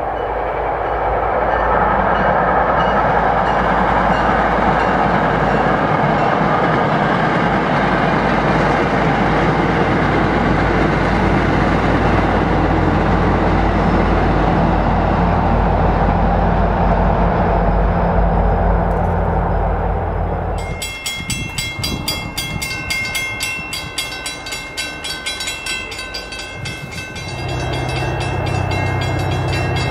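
MBTA commuter train, a diesel locomotive hauling passenger coaches, passing by with a steady engine drone and wheel-on-rail rumble for about twenty seconds. It cuts off abruptly and is replaced by a fast, evenly repeating high ringing. Near the end a low engine drone rises under the ringing.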